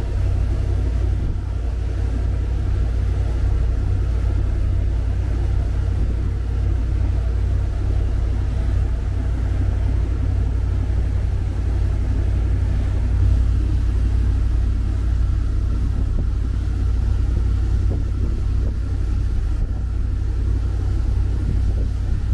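Steady low rumble of a cruiser's MerCruiser 7.4 inboard engines running at an even speed while under way.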